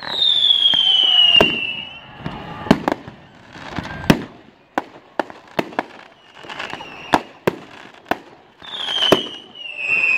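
Fireworks going off: repeated sharp bangs and cracks, with a whistling firework falling in pitch at the start for about two seconds and another beginning near the end.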